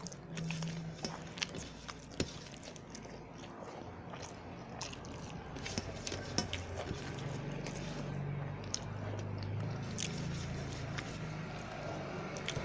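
Close-miked chewing and mouth sounds of a person eating rice and curry, with many small wet clicks and smacks.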